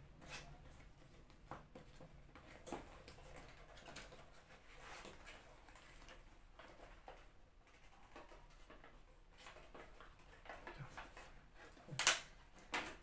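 Small cardboard box being handled and opened by hand: scattered faint rustles and taps, with two sharper clicks near the end.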